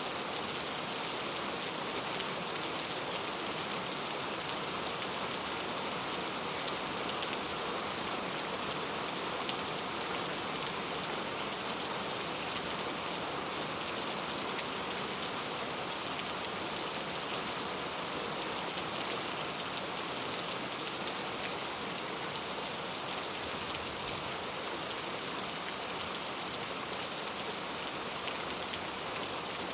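Steady rain falling and pattering on surfaces, an even hiss with fine drop ticks, unchanging throughout.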